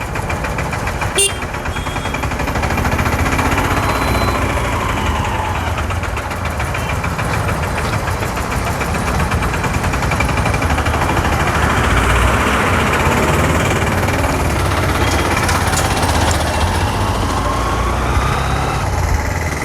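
Honda Livo's 110 cc single-cylinder motorcycle engine running as it rides slowly through heavy traffic, with wind and road noise on the rider's microphone and other vehicles around. A single sharp click about a second in.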